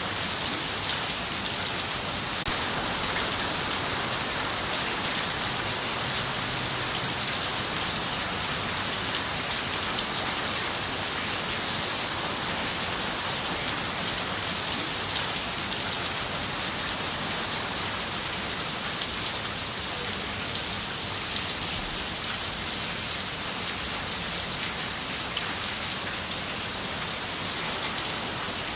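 Steady rain falling on a window: an even hiss with scattered sharper taps of single drops striking the glass.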